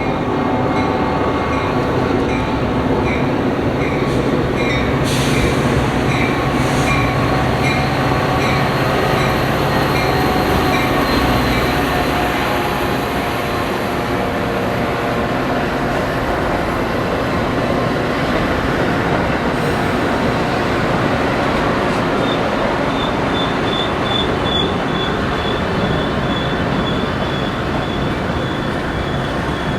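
Train rolling by on steel rails: a loud, steady rumble of wheels on track with thin, high wheel-squeal tones and runs of regular ticking.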